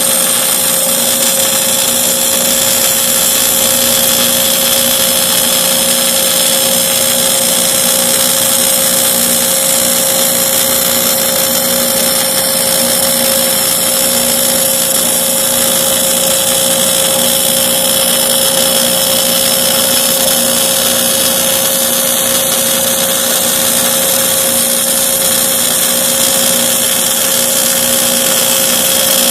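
Portable line boring machine running steadily, its motor-driven boring bar turning and cutting a welded-up bore, with an even whine that holds unchanged throughout.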